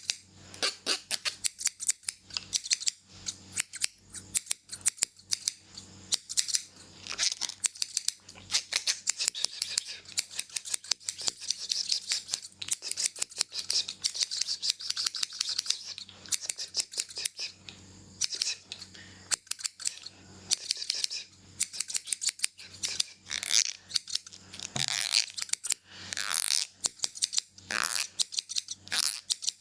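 Hair-cutting scissors snipping in quick, dense runs of sharp clicks, with a few longer swishing sounds near the end.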